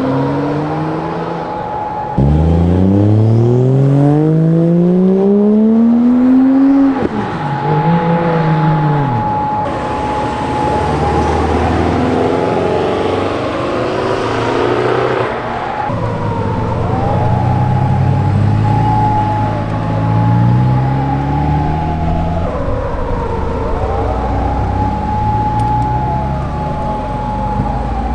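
Car engines accelerating hard: one engine revs up loudly with a steadily rising pitch for about four seconds, lets off suddenly, and climbs again briefly. More cars then accelerate through the gears and pass by with falling pitch. A steady high whine runs underneath throughout.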